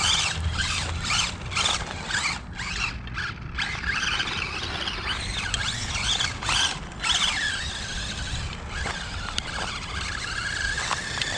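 Radio-controlled pickup truck's motor and drivetrain whining, its pitch rising and falling as the throttle is worked, with short breaks and a long rising whine near the end, the wheels spinning without grip on wet ground.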